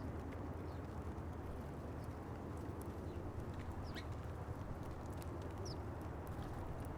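Small birds at a feeder: scattered small clicks and two short, high chirps, about four and six seconds in, over a steady low background rumble.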